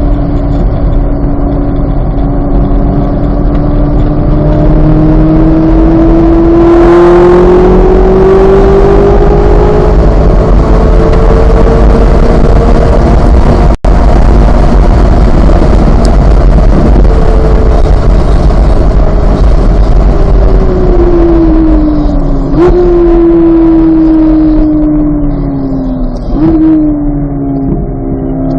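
2023 Chevrolet Corvette Z06's 5.5-litre flat-plane-crank V8 pulling hard, its revs climbing steadily for about thirteen seconds in one gear. The audio drops out for an instant, then the revs fall off under braking, with two downshifts each marked by a sudden jump in revs near the end.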